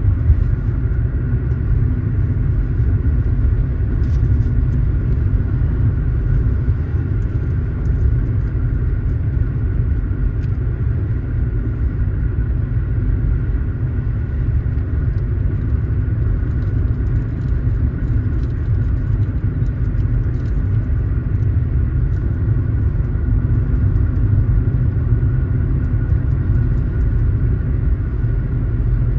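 Car driving at a steady pace: a continuous low road and engine rumble, with no change in speed.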